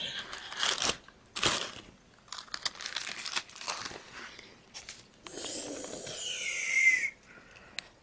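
Food wrapping being handled and crinkled, irregular crackles and tearing, with a louder two-second rustle carrying a falling squeak near the end.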